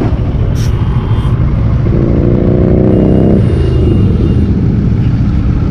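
Motorcycle engines running with a steady low rumble. About two seconds in, a higher pitched engine note joins for about a second and a half.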